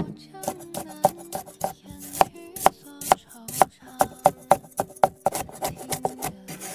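Knife chopping food in quick, uneven strokes, about three cuts a second, while cured pork and liver are prepared for a stir-fry. Background music plays underneath.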